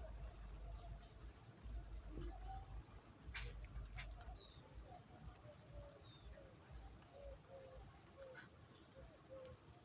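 Birds calling faintly: a brief cluster of high chirps about a second in, then a run of short, low, repeated notes at about two a second through the second half, over a low rumble.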